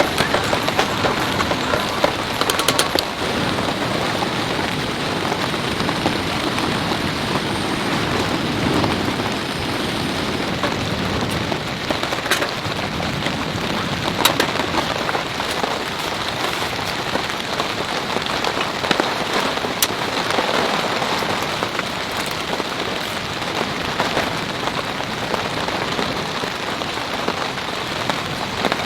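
Heavy rain falling steadily, with scattered sharper drop hits standing out from the hiss.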